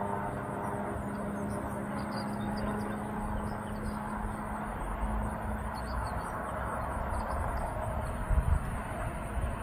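Distant locomotive approaching down the line: a steady low engine hum over an outdoor rumble. Faint bird chirps sound above it, and there is a brief low bump near the end.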